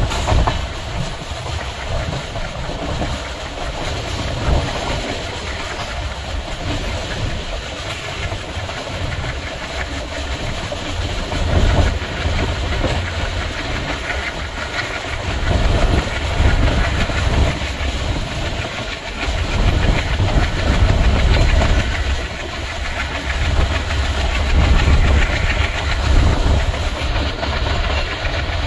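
Express train running along the track, heard from aboard: wheels clacking over the rail joints over a steady low rumble and hiss.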